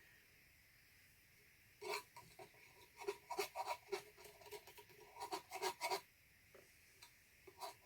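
Short rubbing and scraping strokes on a stretched canvas as paint is spread across its surface. They start about two seconds in, stop about six seconds in, and a couple more come near the end.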